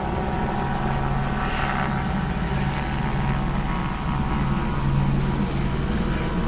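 Steady low engine drone with no breaks or sudden sounds.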